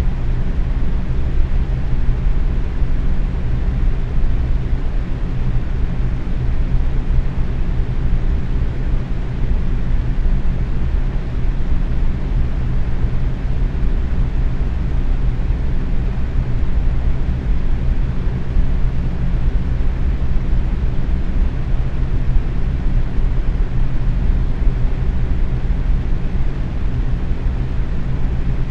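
Box fan running steadily at medium speed: a constant airy whoosh, heaviest in the low end, with a steady low hum from the motor and blades.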